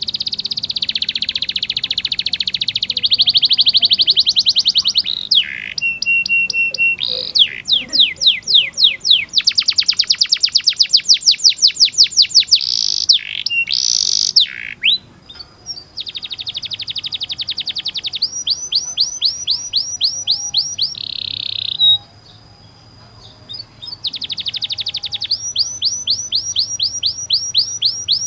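Domestic canary singing a long song of fast rolling trills and rapid strings of repeated notes. The song breaks off briefly about halfway through and again about two-thirds through.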